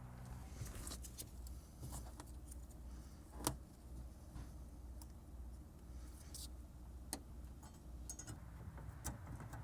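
Faint scattered clicks and taps of hands fitting a halogen headlight bulb and its plug into the headlight housing, with one sharper click about three and a half seconds in, over a low steady hum.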